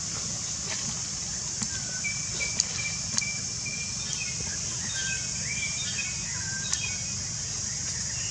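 Forest ambience: a steady high-pitched hiss over a low rumble, with a bird calling in short whistled notes through the middle, and a few faint clicks.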